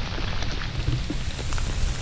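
Freezing rain falling steadily, a patter of many small drop ticks on ice-coated surfaces, over a low rumble.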